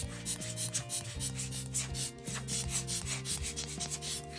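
Quick, repeated rubbing strokes, several a second, as parts of a Nikon Ai 28mm f/2.8 lens are worked by hand during reassembly. Background music plays underneath.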